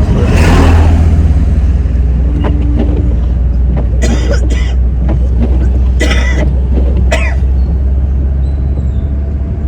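Steady low rumble of a car's engine and road noise inside the cabin while driving, with a person coughing several short times about four to seven seconds in.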